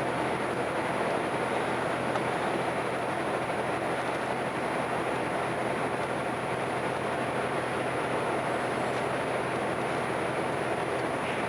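Steady noise on board a ferry under way: an unchanging rushing drone with no distinct events.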